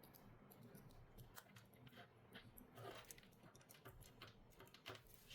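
Faint, irregular clicks and taps of small repair tools working on a Samsung Galaxy Z Flip 5 phone.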